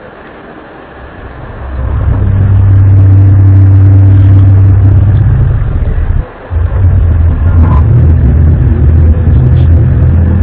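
A loud, low, droning 'sky trumpet' sound of unexplained origin. It swells in over the first couple of seconds and holds one deep pitch. It breaks off briefly about six seconds in, then comes back wavering.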